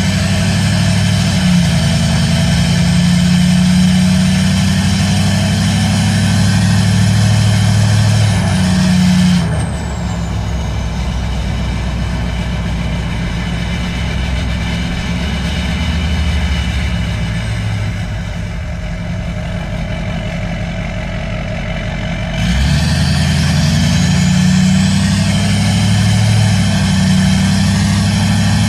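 Straight-piped Duramax 6.6 L V8 turbodiesel running loud through a 5-inch exhaust, with a high whine rising in pitch. About ten seconds in it turns quieter and duller for some thirteen seconds. Then it comes back loud, with the whine rising again.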